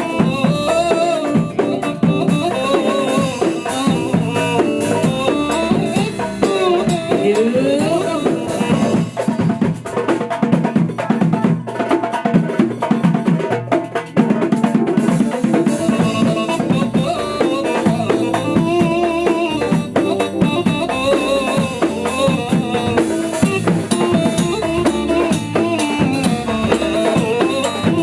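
Live band rehearsing an Arabic pop song. A drum kit keeps a steady beat under a sliding, ornamented melody line.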